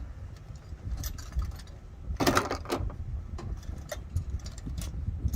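Objects being handled and moved about: scattered clicks and knocks, with a louder clatter about two seconds in, over a low rumble.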